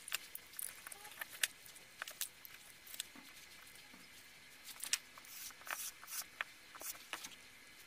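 Plastic housing of a portable inflator pump being handled and fitted back together: scattered light clicks, taps and rustles at an irregular pace.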